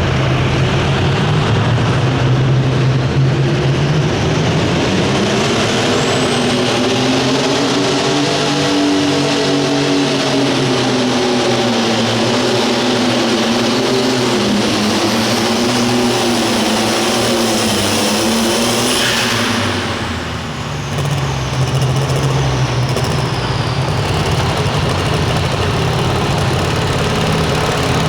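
Light limited super stock pulling tractor's turbocharged diesel engine running hard under load, its pitch climbing, then wavering lower as the load builds. About twenty seconds in the engine sound drops away briefly, and a steady lower engine sound carries on after.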